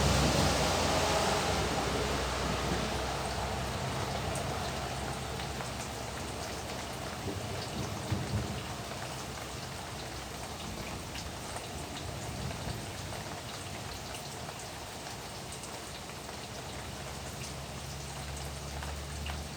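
Rain falling steadily, with scattered individual drops ticking; it is louder at the start and settles to a lower, even level over the first several seconds.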